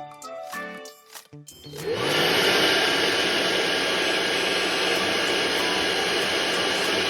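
Light plucked background music, then about two seconds in an electric blower starts up, its whine rising as the motor spins up, and runs steadily and loudly, blowing up a giant balloon.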